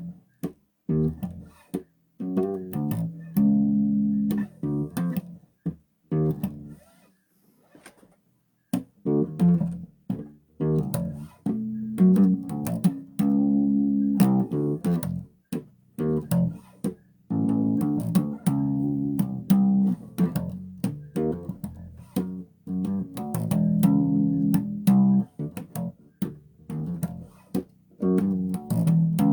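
Bass guitar played solo in plucked notes and short phrases, with a pause of about two seconds some seven seconds in.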